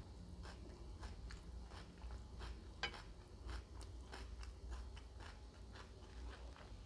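Close-miked eating: a person chewing and biting crunchy food, with a quick run of crisp crunches about two or three a second and a louder crunch about three seconds in.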